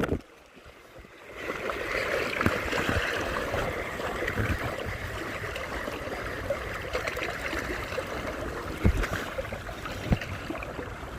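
Choppy lake water splashing and lapping: a steady rushing, trickling sound that comes in about a second and a half in, with small scattered ticks.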